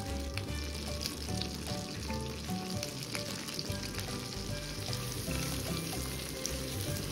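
Tomato paste sizzling steadily as it fries in oil and butter in a frying pan, with a silicone spatula stirring and scraping through it. Light background music plays underneath.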